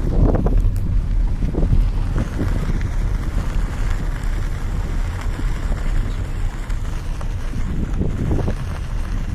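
Wind buffeting the microphone in uneven gusts over the steady low rumble of a vehicle travelling along a road.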